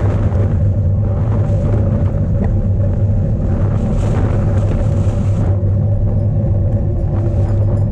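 Strong wind buffeting the microphone of an onboard camera on a cyclocross bike, heard as a loud, steady low rumble, with the hiss of tyres and bike noise underneath.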